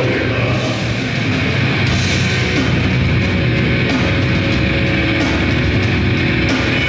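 Grindcore band playing live: loud distorted guitars and bass with drums, a dense, continuous wall of sound.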